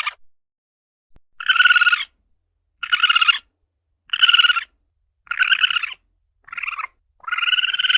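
Asian palm civet (luwak) calling: a series of short, buzzy, rasping calls, each about half a second long, repeated about once a second with silent gaps between, six or so in all.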